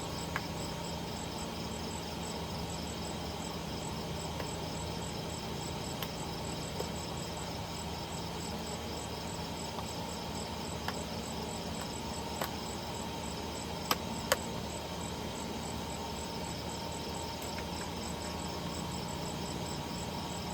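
Insects chirping in a steady, rapidly pulsing high trill, with a few short sharp clicks, the loudest two close together about two-thirds of the way through.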